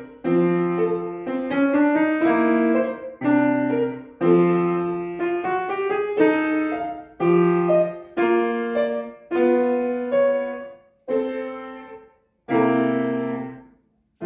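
Acoustic piano playing a classical piece in short phrases of struck chords and rising runs, each ringing and dying away, with brief pauses between phrases; the last chord fades out near the end.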